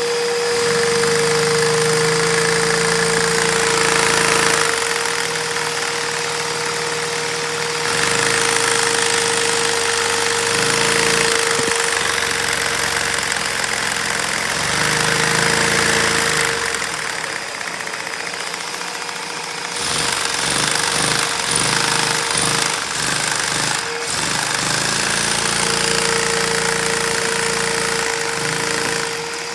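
Lego inline two-cylinder vacuum engine running at high speed with a fast knocking clatter, over the steady whine of the vacuum cleaner that drives it. The engine's speed rises and falls several times.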